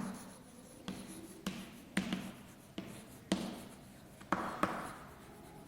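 Hand-writing sounds: a pen, marker or chalk touching down and scratching out short strokes on a writing surface. About seven sharp taps, each followed by a brief scratch, spaced half a second to a second apart, fairly quiet.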